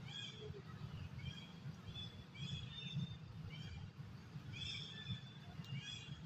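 Short, high chirps repeated in quick irregular runs, typical of a bird calling, over a low steady rumble.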